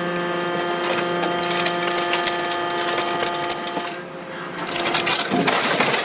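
A shredding machine runs with a steady pitched whine while material cracks and splinters in its cutters. The whine stops about five seconds in and a burst of louder crunching follows.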